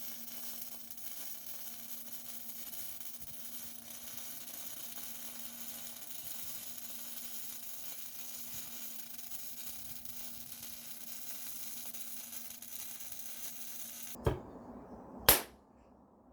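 Steady low hiss with a faint hum. Near the end it cuts off with a click, then one sharp knock.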